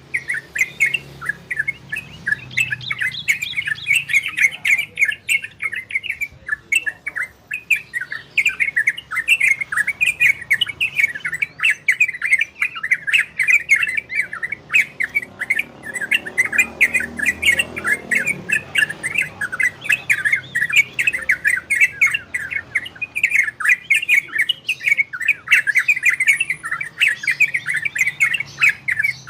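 A trocokan (yellow-vented bulbul) singing a fast, almost unbroken chatter of short chirping notes, the rapid 'ropel' style of song.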